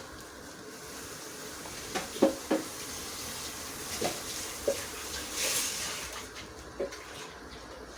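A pot of broth on the boil with a steady hiss, and a few light clinks of a utensil against the pot as vermicelli is added. The hiss fades about six seconds in.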